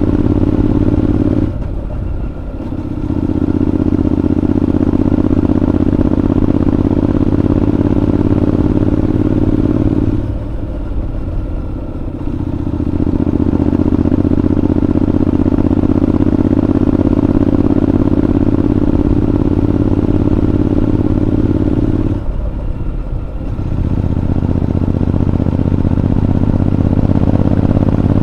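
Honda NC750X's parallel-twin engine running under way through a Moriwaki aftermarket exhaust, a steady low exhaust note. The note drops away briefly three times as the throttle eases, then picks up again.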